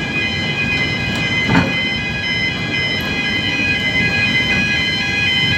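Rumble of a train heard from the brake van, with several steady high-pitched tones held over it and a single knock about one and a half seconds in.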